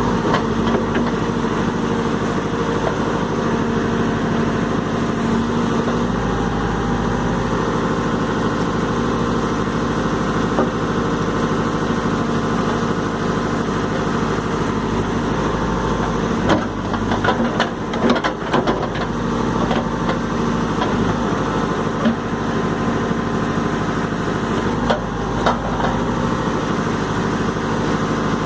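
Diesel engine of a Caterpillar 416E backhoe loader running steadily while it digs. Clusters of knocks and clatter come about two-thirds of the way through and again near the end.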